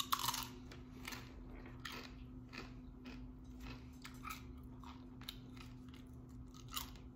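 Close-up crunching and chewing of tortilla chips: an irregular run of crisp crunches, loudest in the first half-second.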